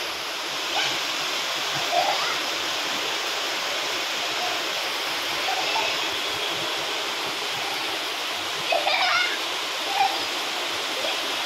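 Steady hiss of rain falling, with children's short shouts and calls breaking through now and then, loudest near the end.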